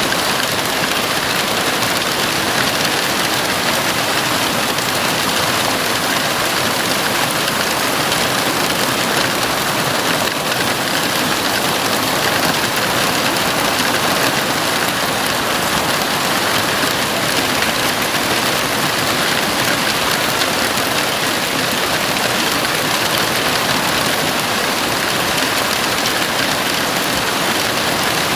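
Heavy rain falling steadily on a house roof, a dense, even hiss with no let-up.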